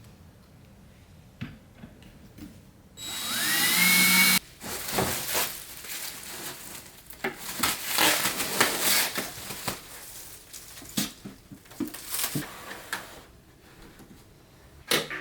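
An electric drill runs once for about a second and a half, its whine rising as it spins up, then cuts off sharply. Irregular knocking and scraping of handled parts follows.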